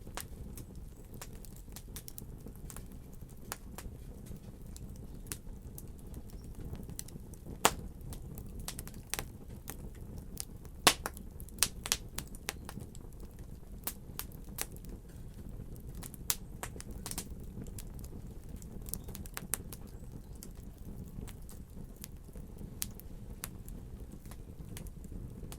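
Wood fire burning in a fireplace: a steady low rumble of flames with irregular crackles and pops, the sharpest snaps a little under 8 seconds in and in a cluster around 11 to 12 seconds.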